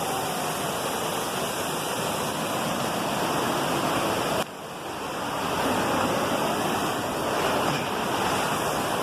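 Waterfall: heavy, strong-flowing water pouring over rocks in a steady loud rush. About halfway through the rush suddenly drops in level and then builds back up.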